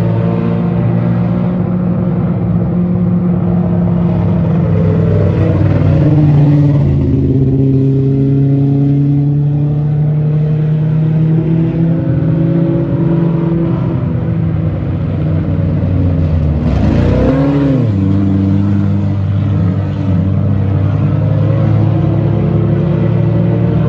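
Mini stock race cars running laps on an oval track, engines held at steady high revs. About two-thirds of the way through, one car's engine note sweeps up and back down as it passes close.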